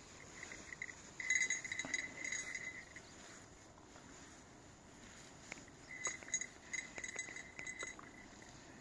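Small bell jingling in two short runs of rapid ringing chinks, one near the start and one past the middle.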